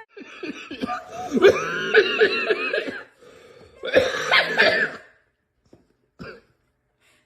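A dog vocalizing in two bursts of yowling, rising-and-falling grumbles, the first about two seconds long and the second about one, then a short faint sound.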